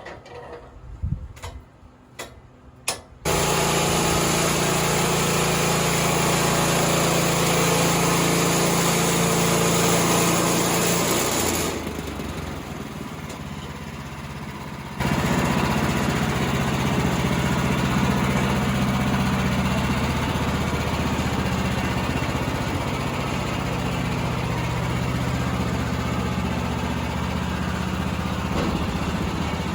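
Woodland Mills HM126 portable bandsaw mill's gas engine running steadily at speed, with the hissing of the band blade cutting through a treated utility pole. It starts suddenly about three seconds in, after a few light clicks, and midway drops for a few seconds to a quieter engine sound without the cutting hiss.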